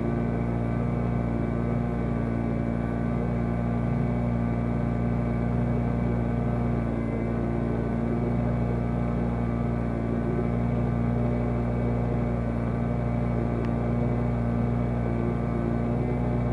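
Boat motor running steadily at trolling speed, an even hum that holds one pitch throughout.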